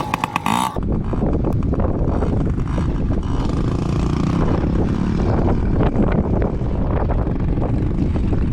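Strong wind buffeting the microphone in a steady low rumble, with small 110 cc dirt bike engines running underneath.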